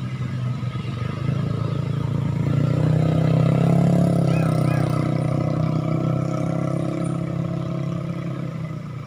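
A motor vehicle's engine rumbling past, growing louder to a peak about three to four seconds in and then slowly fading.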